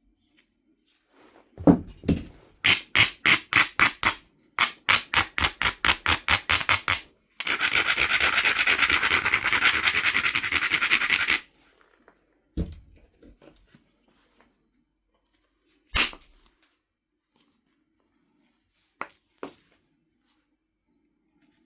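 Stone abrader rubbed along the edge of a Knife River flint biface, about four strokes a second, then faster continuous scrubbing for a few seconds: grinding the edge to prepare striking platforms. After that, a few sharp knocks of stone and tool, the last two close together with a slight clink.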